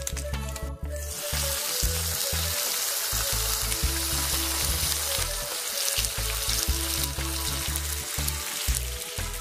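Shrimp, vegetables and rice sizzling in a frying pan as they are stirred, an even hiss that sets in about a second in. Background music with a pulsing bass beat plays throughout.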